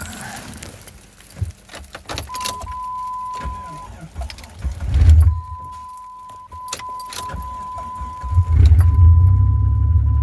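Keys jangling and clicking, then a steady electronic warning chime tone from the Jeep Grand Cherokee's dash, with a low thump midway. About 8.5 s in the 4.0 L inline-six engine fires on a cold start in freezing weather and settles into a low, steady idle.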